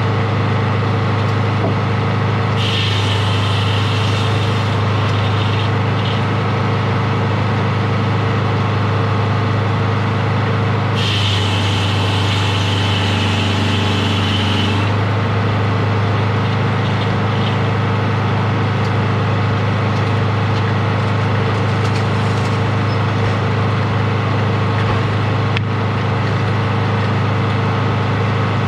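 A sawmill's engine running steadily with a constant low hum. A higher hissing whine joins it twice, from about 3 s to 5 s and from about 11 s to 15 s.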